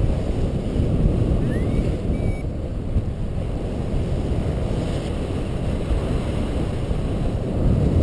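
Wind rushing and buffeting over the microphone of a paraglider in flight in strong wind, a steady low rumble. A faint short rising chirp sounds about a second and a half in.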